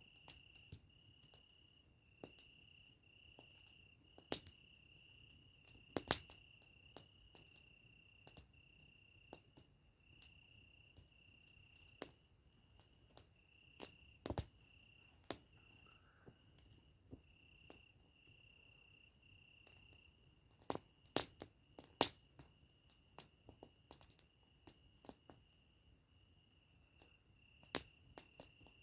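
Campfire crackling with sharp, irregular pops, over crickets chirping steadily in short repeated trills.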